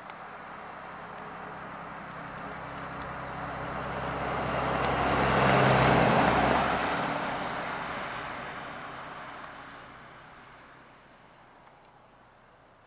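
A motor vehicle driving past: engine and tyre noise builds to a peak about six seconds in, then fades away, with no siren sounding.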